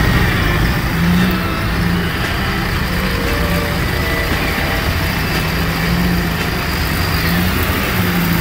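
Off-road 4x4 engine running and revving as it works through deep mud.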